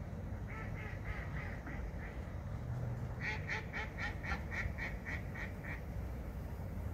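A bird calling in two quick runs of short, evenly spaced notes, about four a second, the second run longer and louder. A low steady rumble lies underneath.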